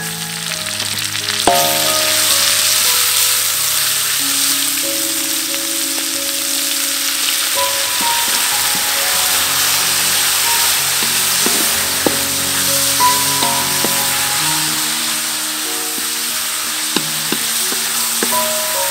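Minced pork and garlic frying in hot oil in a wok, a steady sizzle that grows louder about a second and a half in, with a wooden spatula stirring and scraping the pan. Soft background music plays under it.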